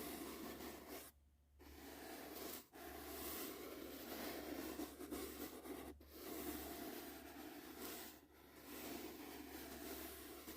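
Soft brush bristles swept back and forth across the microphone in long strokes, a steady rustling hiss broken by a few brief pauses. A faint steady low hum sits underneath.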